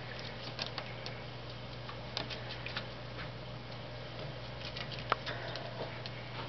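A budgie splashing in a small water bath: light, scattered patters and flicks of water.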